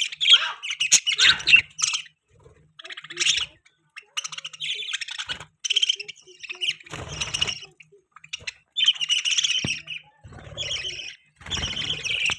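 Budgerigars chirping and chattering in quick bouts of high twittering, each about a second long, with short pauses between.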